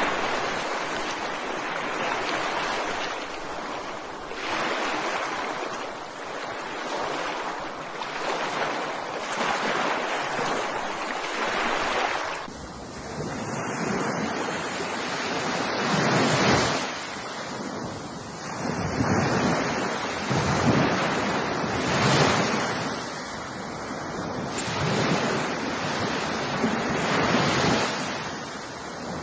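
Ocean surf: waves washing and breaking in repeated surges that swell and fall back every couple of seconds, heavier from about halfway.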